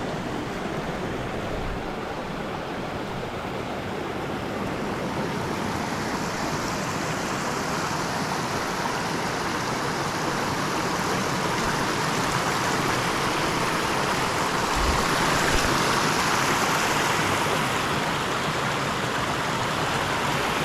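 Rushing stream water, a steady hiss that grows gradually louder.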